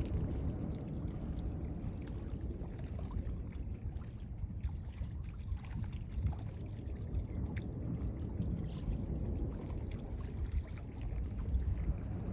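Beach surf: a steady, low rumbling wash of waves.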